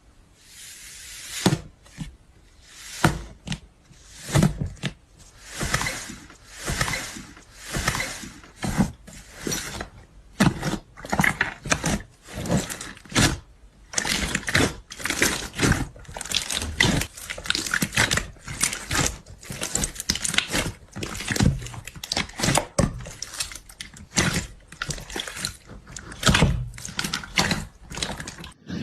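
Hands squishing, pressing and pulling slime, in a run of short squelching bursts, about one every second or so at first and quicker, more irregular ones after about halfway.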